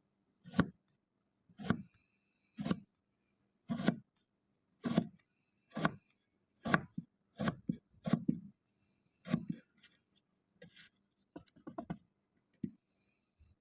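Kinetic sand being cut, a tool slicing through the packed sand in about ten separate short strokes roughly once a second, followed by a few lighter scrapes and crumbling ticks near the end.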